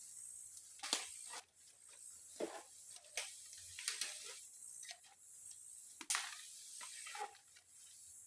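Irregular sharp knocks and clicks, about seven, scattered over a steady high hiss.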